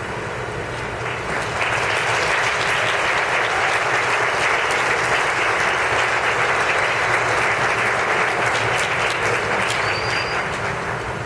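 Audience applauding, swelling about a second and a half in and easing off near the end.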